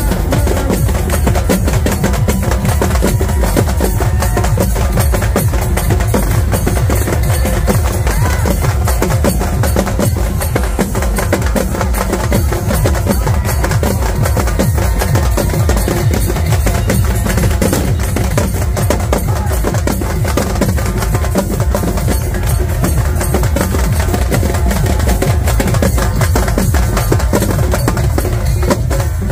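Loud, fast drumming over heavy bass without a break: DJ music together with halgi frame drums, played for dancing.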